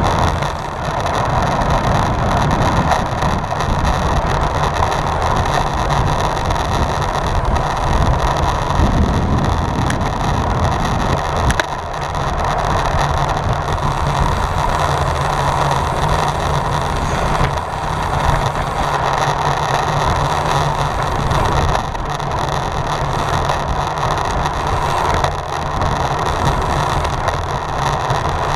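Wind rushing over the microphone of a camera on a road bike ridden at race speed, with steady low rumble from the tyres on the road.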